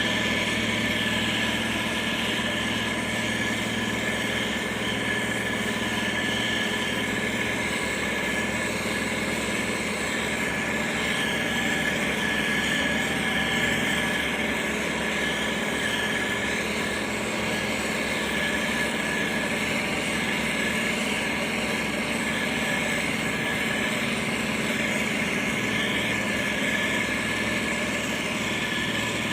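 Diesel engine of heavy road-construction machinery running steadily at an even level.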